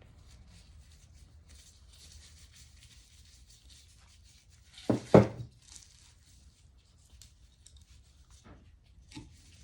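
Hands working on small metal engine parts: faint rubbing and scraping, a sharp double clack about halfway through, and a couple of light clicks near the end.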